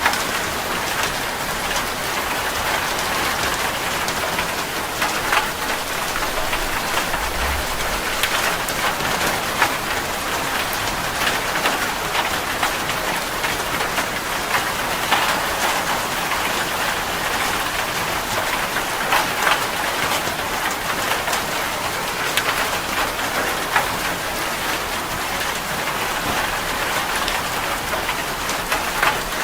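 Heavy rain falling steadily on a metal roof: a dense, even hiss with many sharp drop ticks.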